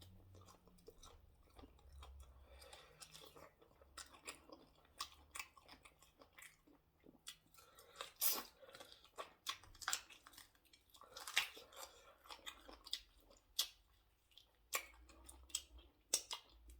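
Close-up eating sounds of a person eating fufu with ogbono soup: irregular chewing, smacks and mouth clicks, the loudest about 8 s and 11.5 s in.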